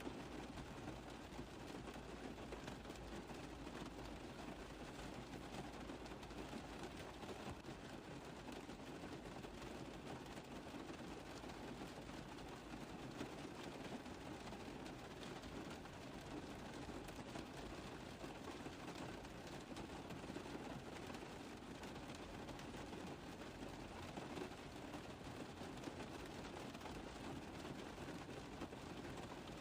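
Rain tapping on a car roof: a steady, dense stream of small drop impacts.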